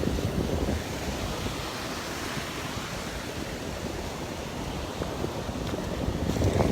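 Gulf surf washing onto the beach, with wind buffeting the microphone; the wind swells louder at the start and again near the end.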